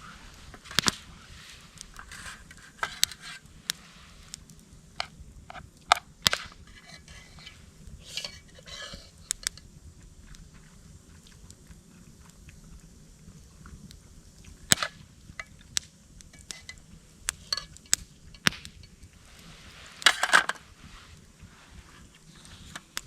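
Irregular sharp clicks and knocks, a dozen or so spread out, with a short crunching rustle about twenty seconds in.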